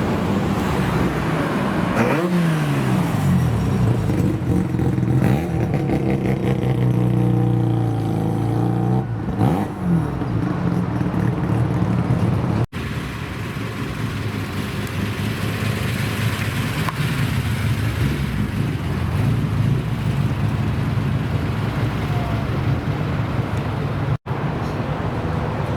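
Car engines running and revving in short edited clips. About two seconds in, one engine's pitch falls and then climbs back, holds steady, and rises again near ten seconds; after a sudden cut about halfway through, an engine runs steadily at a low pitch.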